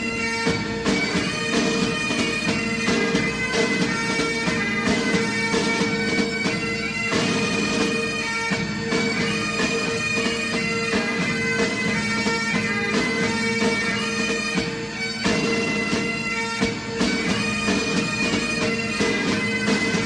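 Bagpipe music: a steady drone held under a moving melody line.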